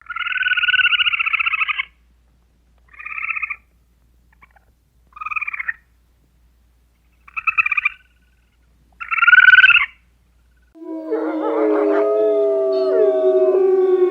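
Animal calls: five rasping, rapidly pulsed calls, the first about two seconds long and the rest shorter, with gaps between them. From about eleven seconds in, several animals call together in long, overlapping notes that glide in pitch.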